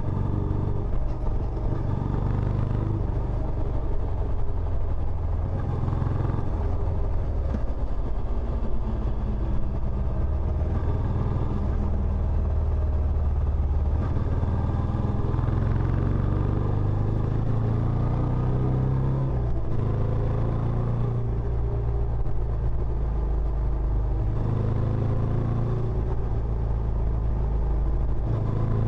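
Benelli Imperiale 400's single-cylinder engine running through its stock exhaust, a steady low note that changes pitch several times as engine speed rises and falls.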